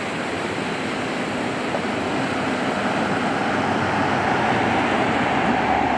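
Highway traffic: a steady rush of road noise, with a vehicle approaching and growing louder through the second half.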